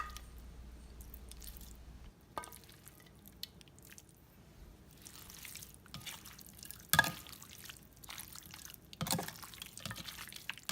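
Sliced beef being mixed through a wet lime-juice dressing in a mixing bowl: soft wet squishing and dripping with a few sharp clinks of a utensil against the bowl, the loudest about seven seconds in.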